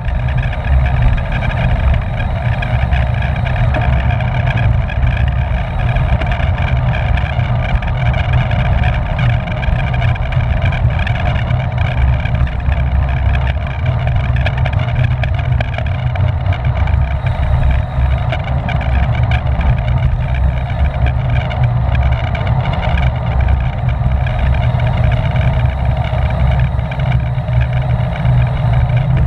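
Wind buffeting the microphone of a camera riding along on a racing bicycle at speed: a loud, steady rumble, with a fainter steady whir above it.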